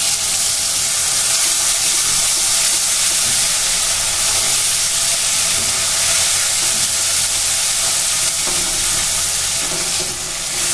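Ground cashew, raisin and poppy-seed paste sizzling loudly in hot oil in a metal kadai as it is stirred with a metal spatula: the masala for a paneer curry frying down. The sizzle stays steady throughout.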